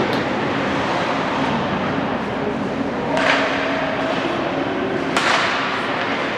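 Ice hockey game sound in a rink: a steady rumble of play, with two sudden short scraping hits about three and five seconds in.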